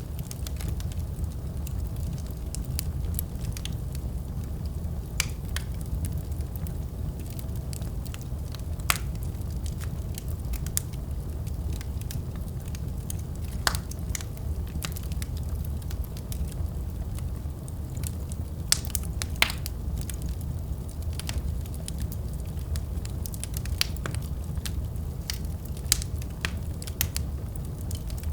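Wood fire burning in a fireplace: a steady low rumble of flames with irregular sharp crackles and pops throughout, a few of them louder.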